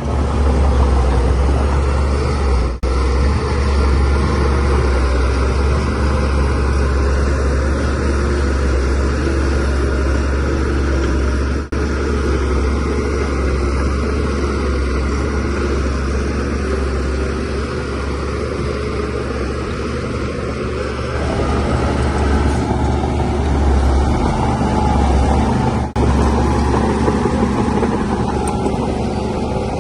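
DH17C3 bulldozer's diesel engine running steadily under load with a strong low drone, broken by three momentary gaps.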